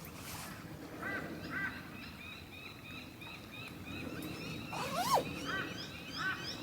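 Birds calling outdoors: a steady run of short, quick chirps, with a few louder arched calls and one rising call about five seconds in, over a steady low background noise.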